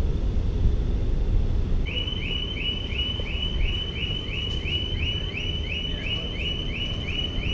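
An electronic alarm chirping, a short rising tone repeated evenly about three times a second, starting about two seconds in, over a steady low rumble.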